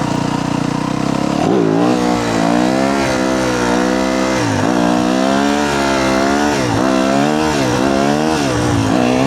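Yamaha YZ250F's single-cylinder four-stroke engine under way, fairly steady for about a second and a half, then repeatedly rising and falling in pitch as the throttle is opened and eased off.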